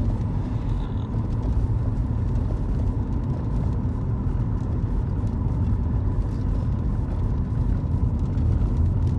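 Car driving along, heard from inside the cabin: steady low road and engine rumble with a faint steady whine.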